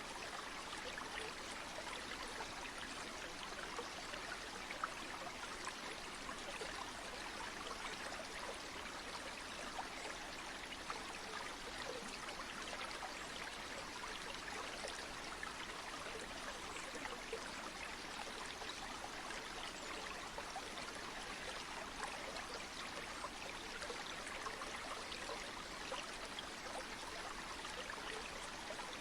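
River water flowing steadily: an even rushing hiss sprinkled with small splashes and trickles, unchanging throughout.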